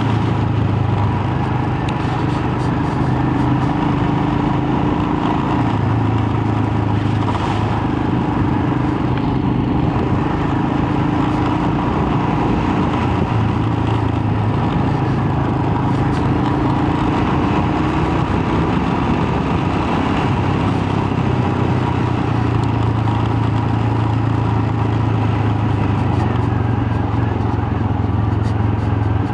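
Royal Enfield Himalayan's single-cylinder engine running at road speed, its note rising and falling slightly with the throttle, under a steady rush of wind noise.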